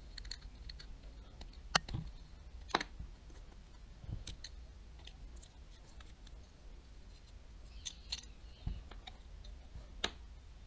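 Scattered small clicks and taps of tools and metal parts of a Daiwa Tatula 100 TWS baitcasting reel being handled during disassembly, with sharper clicks near two and three seconds in and near the end, over a faint low hum.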